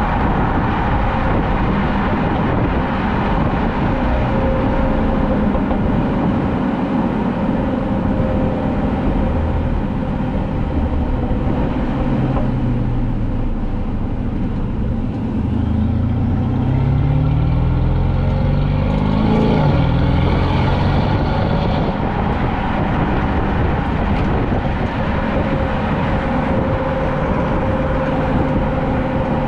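Mercedes-Benz S550's twin-turbo V8 running through a resonator-deleted exhaust while driving. It holds a steady cruise, the engine note climbs under acceleration about halfway through, then it settles back to a steady cruise.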